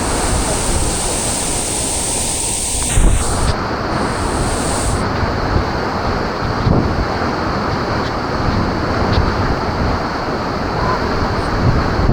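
Waterfall water rushing in a steady roar, with wind buffeting the microphone. There is a brief knock about three seconds in.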